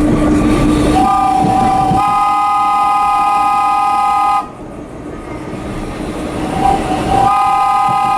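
Vintage subway train running, then its horn sounding: a short toot about a second in, a long steady blast from about two seconds that cuts off, and another long blast starting near the end.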